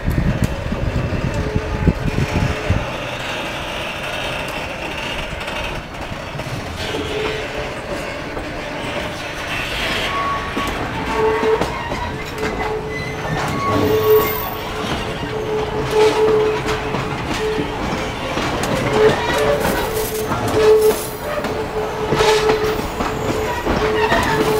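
Freight train of container flatcars and liquefied-chlorine tank wagons rolling slowly past, its wheels clacking and rumbling on the rails. From about eleven seconds in, a steady squeal from the running gear comes and goes.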